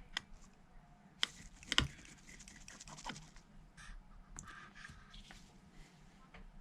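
Scattered small clicks and taps of a precision screwdriver working tiny screws out of a phone's battery plate, with the sharpest clicks about one and two seconds in.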